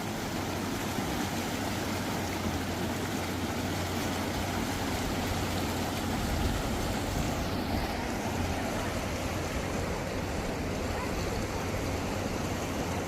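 Steady rushing of river water, with a low steady hum underneath.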